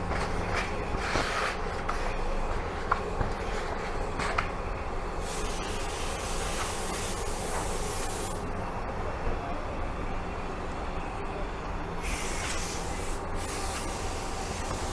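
Car-wash cleaning equipment running over a steady low hum, with a hiss that cuts in from about five to eight seconds in and again briefly near the end, and a few light clicks in the first few seconds.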